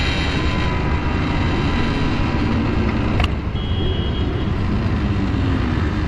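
Two-stroke Kawasaki Ninja RR motorcycle engine running at low speed in traffic, heard from the rider's position with wind and road noise over it. A short click comes a little past halfway, then a brief high beep.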